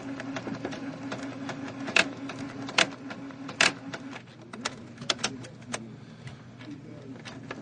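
Canon MP560 inkjet printer's mechanism running: a steady motor whir that stops about four seconds in, with a string of sharp clicks and three loud clunks, then a few more clicks. This is the noisy routine the printer goes through before failing with error code 5C20.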